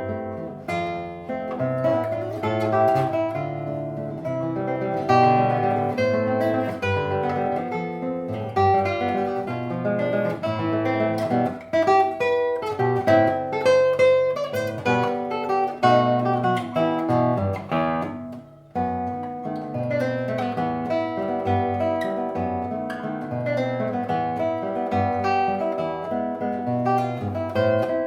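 Solo acoustic guitar playing a waltz, plucked melody over bass notes, with a brief pause about two-thirds of the way through.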